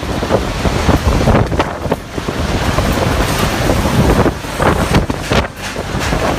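Strong wind rushing and buffeting the microphone in gusts, rising and falling.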